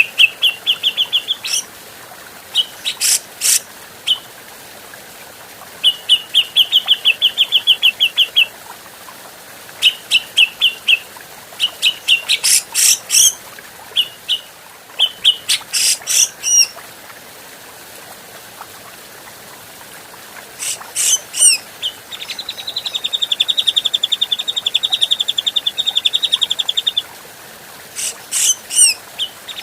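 Cucak jenggot (grey-cheeked bulbul) calling in bursts: quick runs of repeated chattering notes and sharp, very high sweeping whistles, with a long fast trill near the end.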